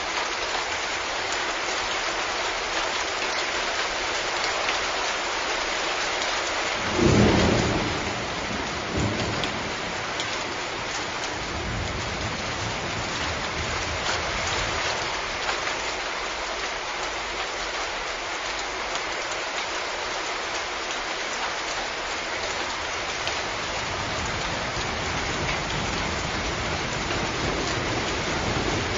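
Steady rain falling, with a crack of thunder about a quarter of the way in that rumbles low for a few seconds before fading back under the rain.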